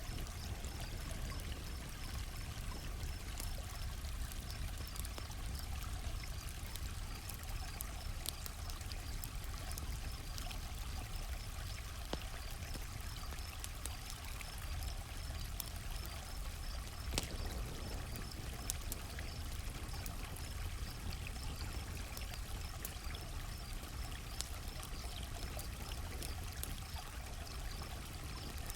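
Campfire crackling, with scattered sharp pops (one louder a little past halfway) over a steady rushing hiss. Crickets chirp in an even, steady pulse throughout.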